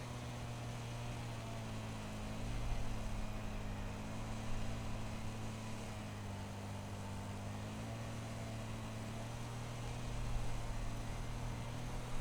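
A steady low mechanical hum, like a small motor running, with its pitch wavering slightly and the sound swelling briefly twice.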